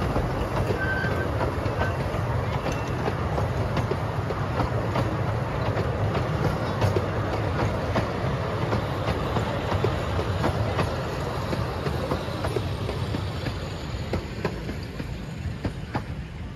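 18-inch gauge excursion train rolling past, its wheels clicking over the rail joints, growing fainter near the end.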